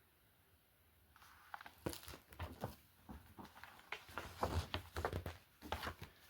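Paper crinkling and rustling as a picture book's pages are handled and turned, a string of irregular crackles starting about a second in.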